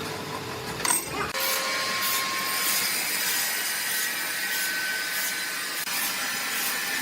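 Saw cutting wood at a sawmill: a loud, hissing cut with a faint even pulse of about three strokes every two seconds. In the first second or so, a machine hums steadily before the sound changes abruptly.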